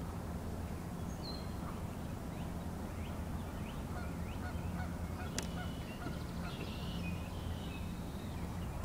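Wild birds calling in short, repeated notes over a steady low hum, with a single sharp click about five seconds in.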